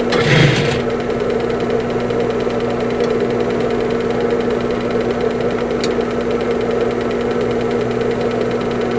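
Sewing machine motor running with a steady hum, with a brief rustle of material just at the start.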